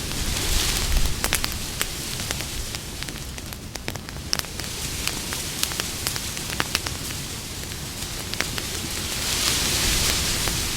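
Campfire crackling and popping: many sharp snaps over a steady hiss of burning wood. The hiss swells briefly near the start and again near the end.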